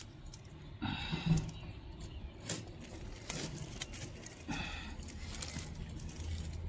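Scissors snipping through plastic bird netting, a scatter of short clicks and rustles.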